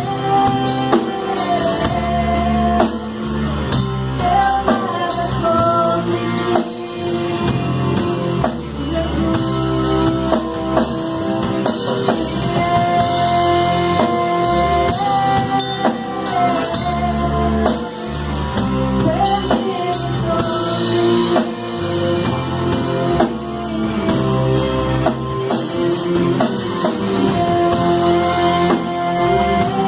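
Contemporary worship band music: drum kit and guitars playing under a long held melody line that slides between notes.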